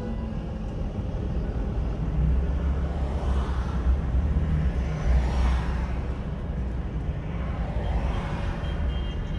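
Motor vehicles: a steady low rumble of engines, with three swells of engine and tyre noise as vehicles pass, about a third of the way in, just past halfway, and near the end.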